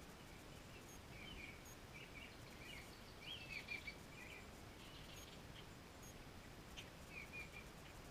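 Faint chirping and twittering of small songbirds in short phrases, a few calls in a row loudest about three to four seconds in, over a low steady outdoor hiss.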